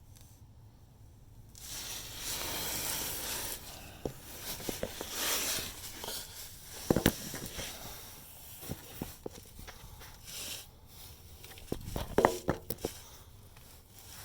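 Rustling and handling noise with scattered sharp clicks and knocks, over a low steady hum.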